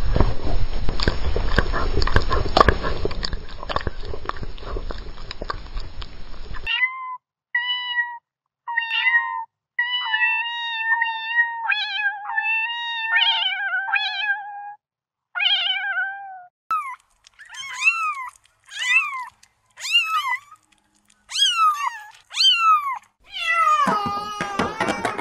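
A tap running for the first few seconds. Then, from about seven seconds in, a kitten mews over and over in short, high calls, the later ones sliding down in pitch. Near the end a rougher, noisier sound cuts in.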